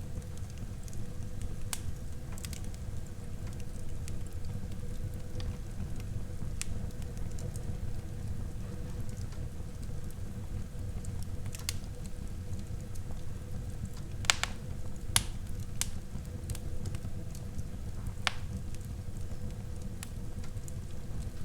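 Wood fire burning in a fireplace: a steady low rumble of flames with scattered sharp crackles and pops, a few of them louder about two-thirds of the way through.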